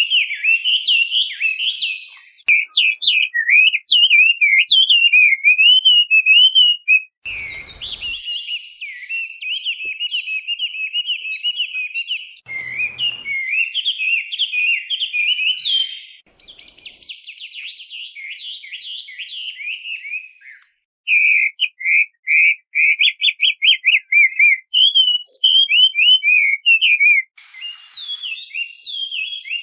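Chinese hwamei (melodious laughingthrush) singing a long, varied song of rapid whistled phrases, loud and continuous with only brief breaks. In the last third it shifts to a run of short, repeated notes. A couple of short knocks or rustles and a brief hiss near the end break in.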